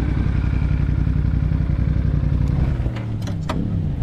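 Sport motorcycle engine running steadily at low revs as the bike slows to a stop. About three seconds in the engine note drops to idle, and a few sharp clicks follow.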